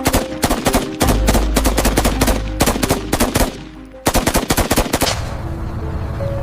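Rapid automatic gunfire in two long runs, separated by a brief pause, over background music. The shots stop about five seconds in, leaving only the music.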